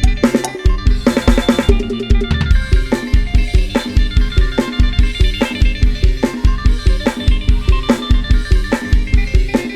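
Thai lam sing-style band music driven by an Addictive Drums 2 virtual drum kit, with kick and snare playing a fast, steady beat. A quick drum fill comes about a second in, and melodic instruments play over the beat.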